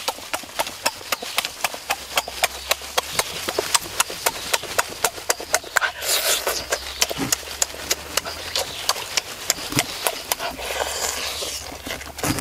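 A man chewing food noisily with his mouth open: a fast, uneven run of wet smacking clicks, several a second. It is broken twice by a short rushing sound of biting or sucking, around the middle and near the end.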